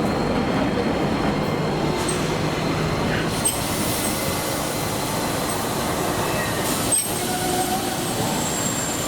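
Toyama Chihō Railway city tram running on its track, with brief high wheel squeals and sharp clicks from the rails about three and a half and seven seconds in.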